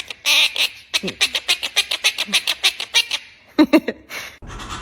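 Pet parrot vocalising in a rapid run of short, sharp clicking calls, about nine a second, for a couple of seconds, with a few louder squawk-like bursts around it. A steady hiss comes in near the end.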